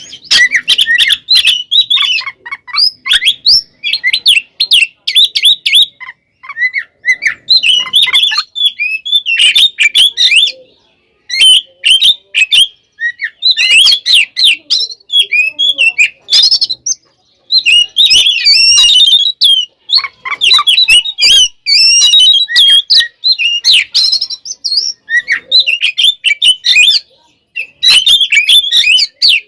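Oriental magpie-robin (kacer) singing loudly in fast, dense bursts of varied chirps, whistles and rattling notes broken by short pauses. This is the agitated fighting song that keepers call tarung or konslet.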